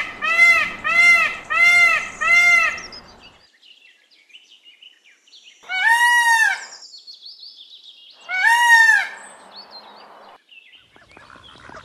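Indian peafowl (peacock) calling: a quick run of five loud, arching calls, then two single, longer calls a few seconds apart.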